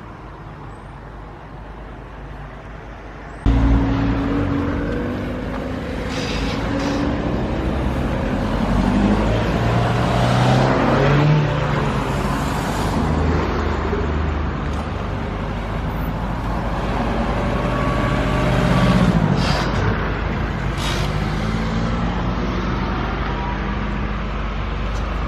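Road traffic passing close by: cars and larger vehicles driving past, their engine notes rising and falling as each goes by. The traffic gets suddenly louder about three and a half seconds in.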